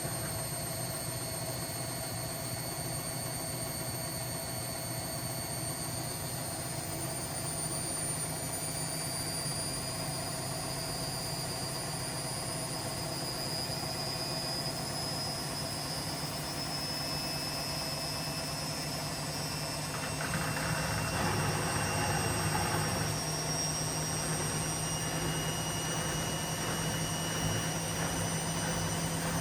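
Washing machine running: a steady low hum under several high whining tones that drift slowly in pitch, with a louder rush of noise for a few seconds about twenty seconds in.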